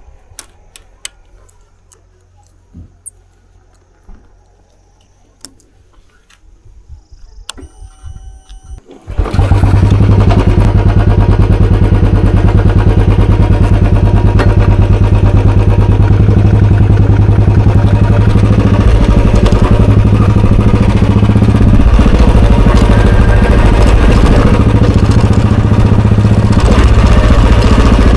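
A few light clicks and taps, then a short starter whirr about eight seconds in, and the 2021 Royal Enfield Bullet Standard 350's fuel-injected 346 cc single-cylinder engine catches and settles into a steady, loud idle.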